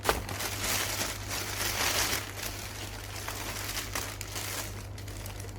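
Plastic packaging crinkling as it is handled, with a sharp tap right at the start. It is busiest for the first two seconds or so, then quieter.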